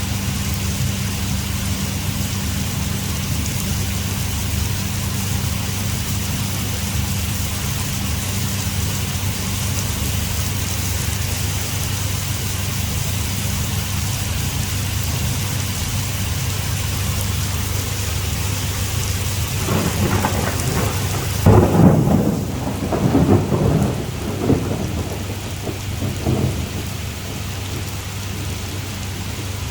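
Heavy rain pouring steadily. About two-thirds of the way through comes a rolling rumble of thunder lasting several seconds, loudest at its start.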